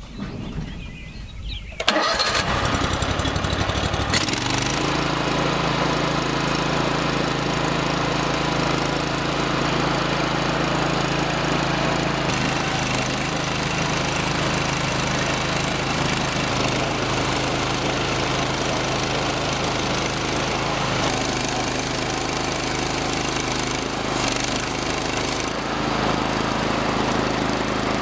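Portable band sawmill's small gasoline engine starting about two seconds in, then running steadily. Its note shifts and settles about four seconds in.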